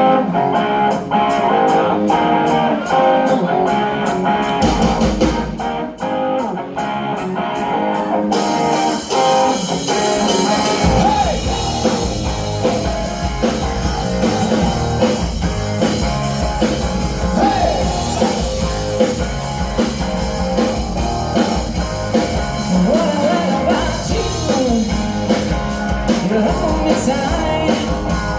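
Live rock band playing: electric guitar over bass and drums, the full band coming in heavier about ten seconds in, with bending lead lines.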